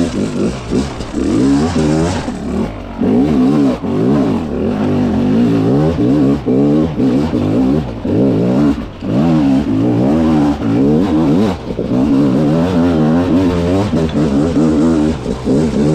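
300 cc two-stroke dirt bike engine revved hard and let off again and again, its pitch climbing and dropping every second or so as the throttle is worked over rough ground.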